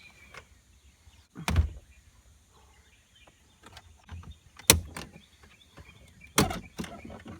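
A few sharp knocks and clicks, spaced a second or more apart, the loudest about halfway through.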